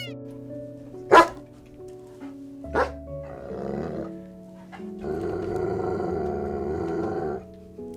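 An animal calls twice, sharply and briefly, then gives a rough call of about two and a half seconds, over background music.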